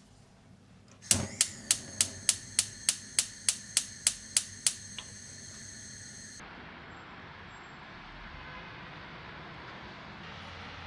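A run of about a dozen sharp clicks with a high metallic ring, about three a second, the first the loudest. About six seconds in, a steady hiss takes over.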